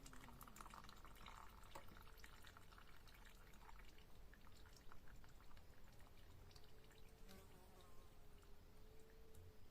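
Near silence with faint, scattered clicks and light taps of hand tools on the engine, as the bolts of a motorcycle's oil-filter cover are undone.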